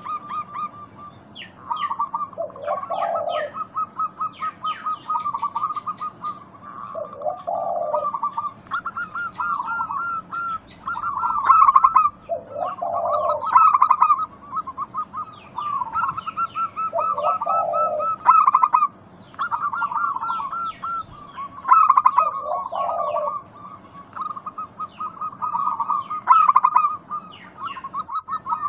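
Zebra doves (perkutut) cooing over and over in rapid, rolling phrases, with a lower coo about every four to five seconds. Small birds chirp higher up between the phrases.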